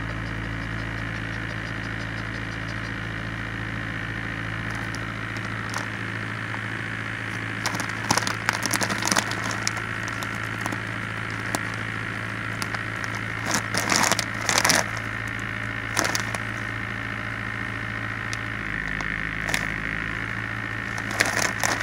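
Steady low hum of a car engine idling, heard from inside the cabin, with scattered short crackling and rustling bursts several times, the loudest cluster about two-thirds of the way through.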